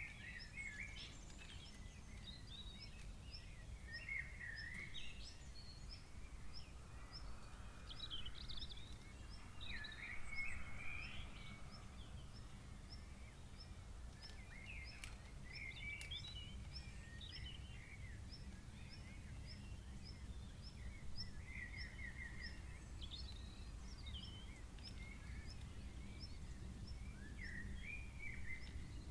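Several birds calling at intervals, with a steady run of short, high chirps about twice a second, over a low steady rumble.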